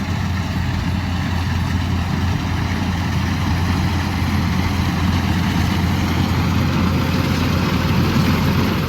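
A combine harvester's diesel engine running steadily under load, a constant deep hum with machinery noise over it.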